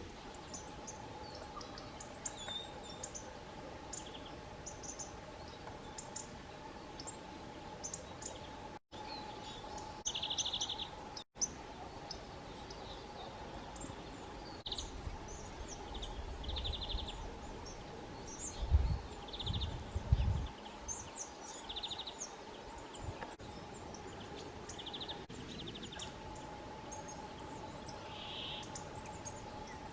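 Small songbirds chirping and calling in a forest, many short high notes and several buzzy calls scattered throughout, over a faint steady hum. A few low thumps about two-thirds of the way through are the loudest sounds.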